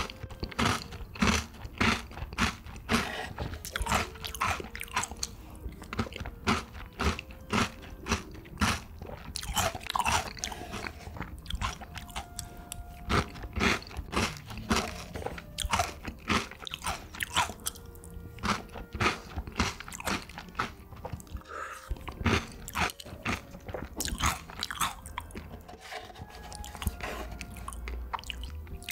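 A person biting and chewing crunchy food, with repeated sharp crunches between steady chewing.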